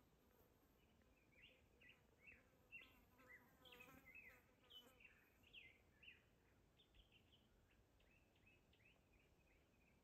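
Faint small-bird chirping: a run of short, quick down-slurred notes, thickest and loudest in the middle, over a low hiss of outdoor air.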